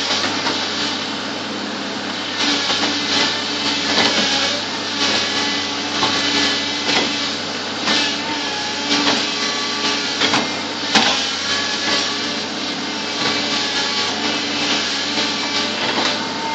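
Bulldozer's diesel engine running steadily, with frequent metallic clanks and brief squeals over it.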